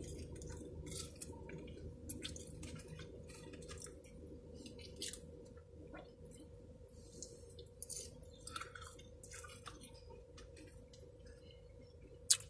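A person chewing chicken bites close to the microphone: a scattered run of small mouth clicks and smacks over a steady low hum, with one sharper click near the end.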